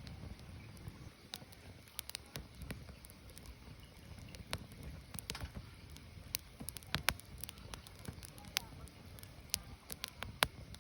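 Firewood burning, with irregular sharp crackles and pops over a low, steady rumble of the flames.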